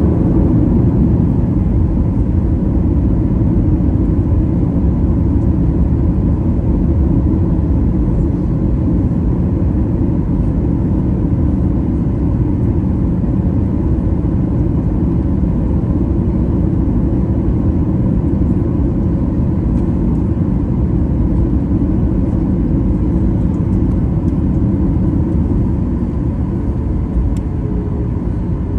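Jet airliner heard from inside the cabin: a loud, steady, deep rumble of engine and air noise with a faint steady whine, easing slightly near the end.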